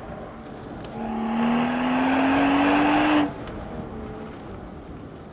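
BMW 135i's turbocharged inline-six pulling hard under acceleration. For about two seconds, beginning a second in, it rises slowly in pitch and grows loud, then drops away suddenly back to a lower running sound.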